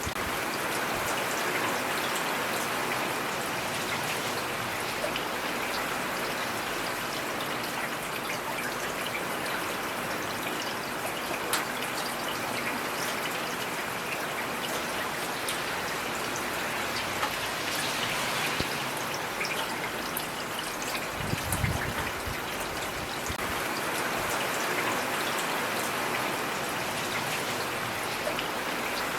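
Steady heavy rain, a dense hiss with scattered individual drops ticking through it. A brief low thump comes about two-thirds of the way through.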